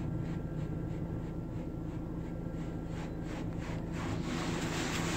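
Steady low hum of an automatic car wash and the idling car, heard from inside the car's cabin, with a few faint ticks and a rush of noise building about four seconds in.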